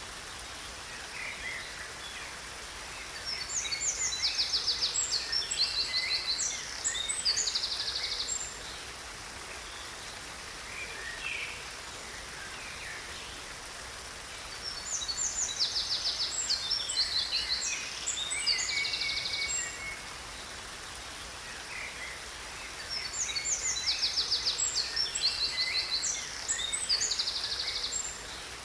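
Songbird singing in three spells of several seconds each, high fast trills and chirps, over the steady rush of a waterfall.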